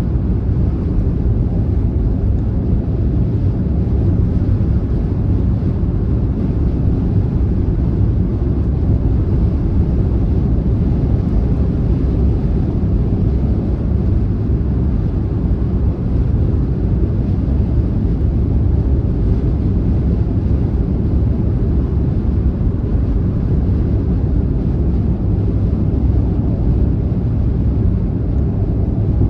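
Car driving at a steady speed on a highway: a constant low rumble of tyre and road noise, with no changes or separate events.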